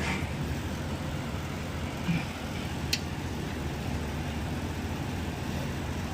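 Steady low hum of the repair shop's background machinery, with a sharp click about three seconds in and a softer knock just before it.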